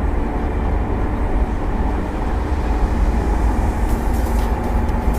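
Steady low road-and-engine rumble of a moving car, heard from inside the cabin.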